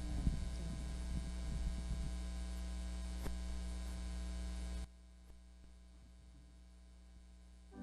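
Steady electrical mains hum with a few faint soft noises and a single click about three seconds in. The hum cuts off abruptly about five seconds in, leaving near silence.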